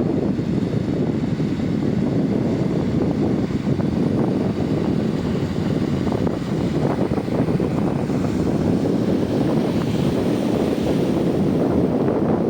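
Steady low rumble of a motor barge under way, mixed with wind buffeting the microphone.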